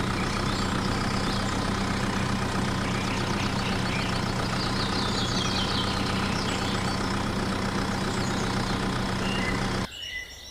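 Engine idling steadily, then cutting off suddenly near the end.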